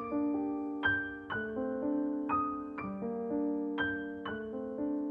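Soft background piano music: a slow melody of single struck notes over held chords, a new note about every second.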